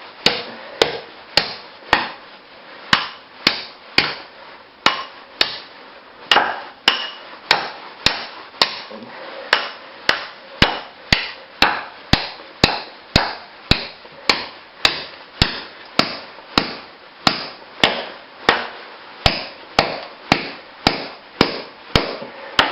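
Steel chisel striking a concrete floor slab over and over, sharp ringing hits about two a second at an even pace, breaking through the last of the concrete.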